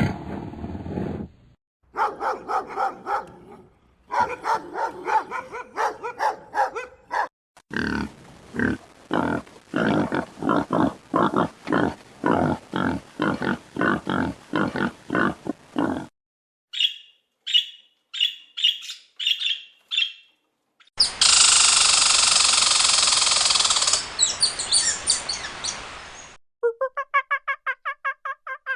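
A series of different animal calls, one clip after another: short repeated calls, a long run of evenly spaced calls, a few high chirps, a loud hissing or roaring stretch, and quick pulsed calls near the end.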